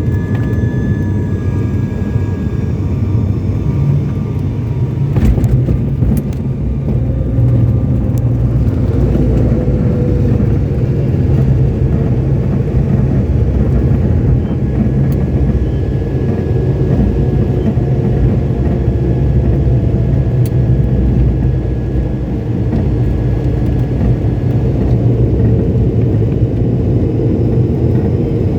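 Steady low rumble of an airliner heard from inside the cabin during landing, with a few light clicks about five seconds in.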